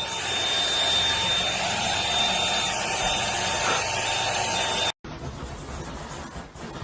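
Vacuum cleaner running steadily with a high whine, used to groom a dog's fur. It cuts off abruptly about five seconds in, leaving a quieter rubbing sound.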